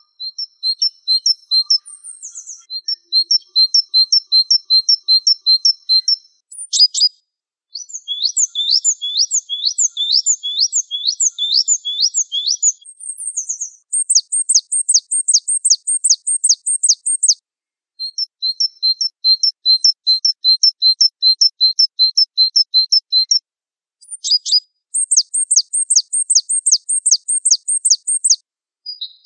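Gelatik Wingko songbird singing: runs of rapid, high, clear repeated notes, each run lasting a few seconds with brief pauses between, the note pattern changing from run to run.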